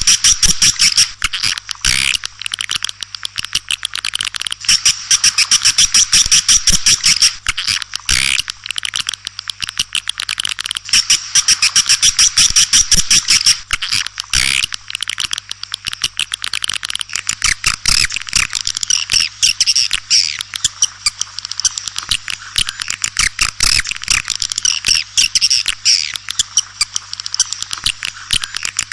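Swiftlets chirping in dense, rapid twittering trains: a swiftlet call (lure) sound of the kind played to draw swiftlets to a nesting house. Stretches of very fast, loud chirping come and go every few seconds over a faint steady electrical hum.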